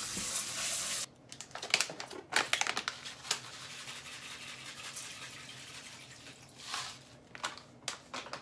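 Mixed grains (zakkokumai) poured from their packet into the rice: a rush of noise, then a quick run of small rattling clicks as the grains fall, then a softer steady hiss with a few rustles near the end.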